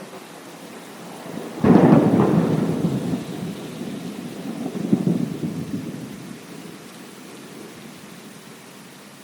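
Steady rain with a close thunderclap: a sudden sharp crack about two seconds in, then rolling rumble that swells again a few seconds later before fading back into the rain.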